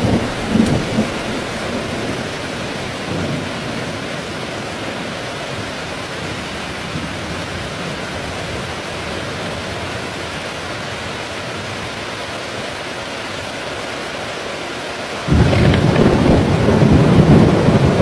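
Heavy rain falling steadily in a thunderstorm, with the last of a thunder rumble fading in the first second. About fifteen seconds in, a loud, low roll of thunder starts suddenly and keeps rumbling under the rain.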